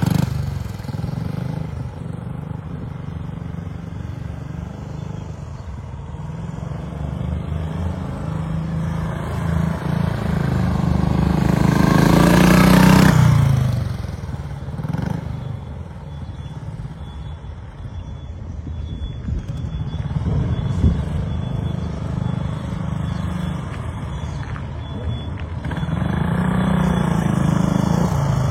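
An engine running, swelling louder and higher about twelve seconds in, then dropping away sharply.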